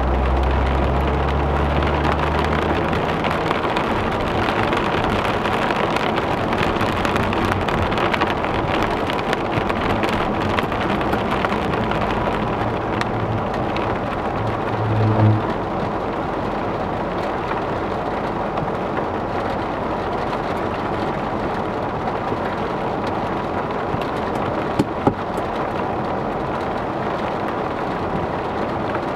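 Heavy rain on a car's roof and windshield, heard from inside the cabin as a steady hiss. A low engine and road rumble dies away in the first few seconds as the car comes to a stop. A brief low rumble comes about halfway through, and two sharp clicks come near the end.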